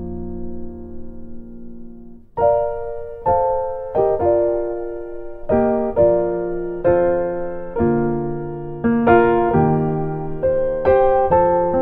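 Gentle background piano music: a held chord fades for about two seconds, then single notes and chords are struck at a slow, even pace.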